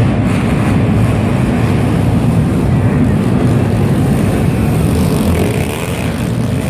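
Pit bike engines running, a loud, steady, dense drone.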